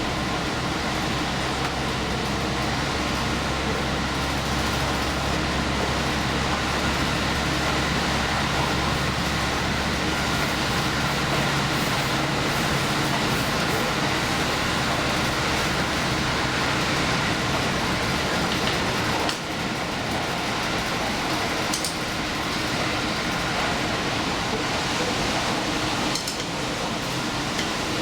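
Diesel express railcar running at speed: a steady rumble of engine and wheels on the rails. About 19 seconds in, the low engine drone drops away and the running noise carries on.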